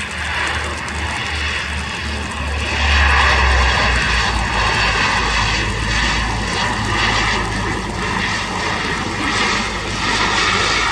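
Bombardier Dash 8 Q100 turboprop engines and propellers running steadily on a landing arrival, a continuous roar with a steady whine on top that grows louder about three seconds in.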